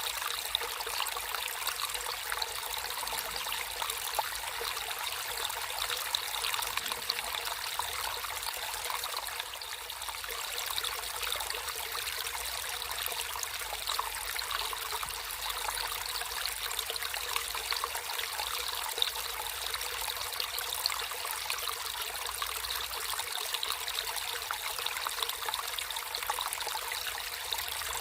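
Water trickling and splashing in a small natural stream, a steady burbling without a break.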